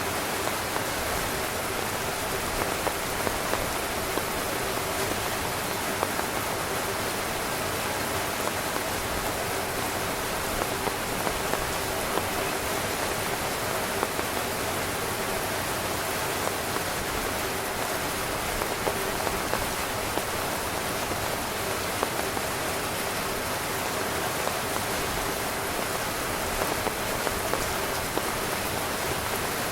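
Steady rain falling on a tent, a dense even patter with many small individual drop taps.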